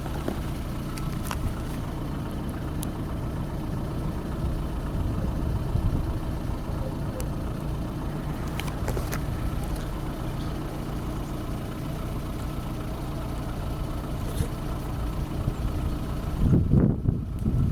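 Engine running steadily at an even speed, with a few light clicks. A gust of wind noise on the microphone comes near the end.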